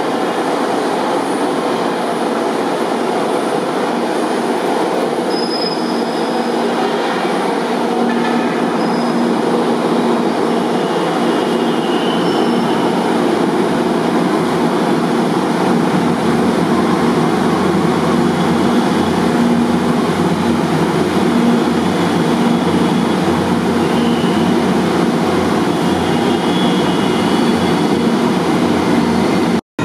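Manila MRT Line 3 light rail train pulling into the station and rolling past along the platform: steady loud wheel-and-rail rumble with a few faint brief wheel squeals. The sound cuts off abruptly just before the end.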